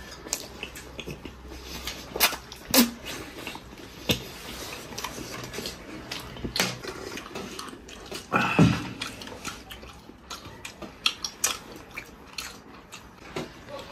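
Two people eating food off bamboo skewers: wet chewing and lip-smacking with scattered short clicks, and one louder, longer mouth noise about eight and a half seconds in.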